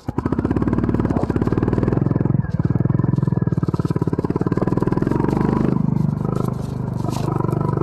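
Honda CB350 RS's single-cylinder engine, which has been running slowly and quietly, opens up under throttle and pulls hard with a dense, even beat. The beat breaks briefly about two and a half seconds in, then carries on and eases a little near the end.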